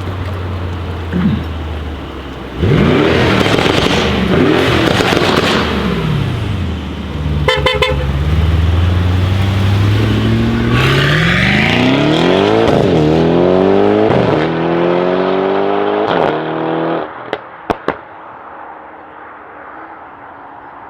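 Modified Mercedes-AMG E63 S twin-turbo V8 idling, then revved hard a few times with sharp crackles and pops. It then accelerates away, the pitch climbing through several upshifts, with more pops as it fades.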